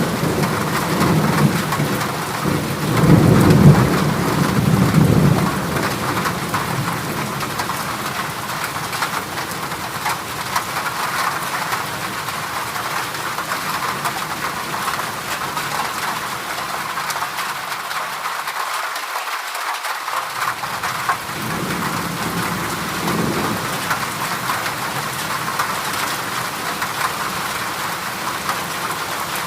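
Heavy rain falling steadily on a corrugated zinc (galvanized iron) roof. A low rumble of thunder swells in the first five seconds or so, and a fainter rumble comes again past the middle.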